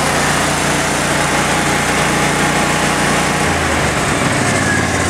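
Engine of an engine-driven welding machine running steadily while warming up after a cold start in deep cold. About three and a half seconds in, its speed drops as the welder is put on auto idle.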